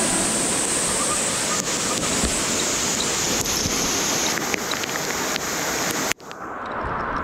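Rushing water of a rain-swollen mountain stream, a steady full hiss of flowing water. About six seconds in it cuts off abruptly and a quieter rush of water follows.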